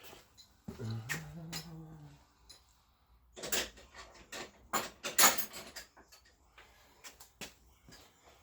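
Metal tools clinking and knocking on a pit bike's bolts as they are tightened with a 12 mm spanner, a cluster of sharp clinks about three to five seconds in.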